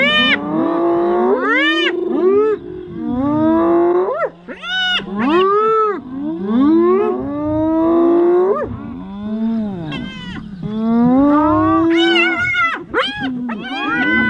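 Lions at a wildebeest kill calling over one another: many short rising-and-falling calls, several overlapping, in quick succession.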